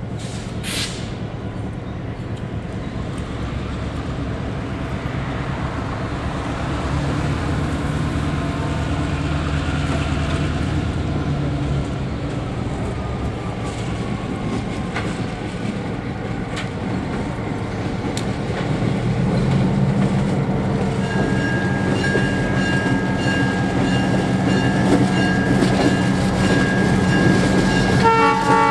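Diesel locomotives running as a train moves along the track, growing louder over the stretch. A horn sounds in the later part and is loudest in short blasts right at the end.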